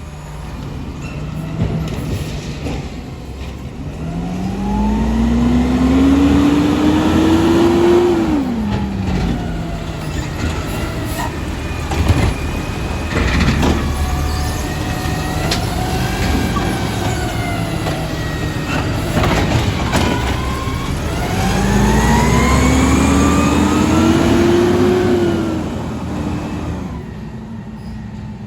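Garbage truck's diesel engine revving up twice, each time climbing steadily in pitch for about four seconds and then dropping back to idle, with a few sharp knocks between the two revs.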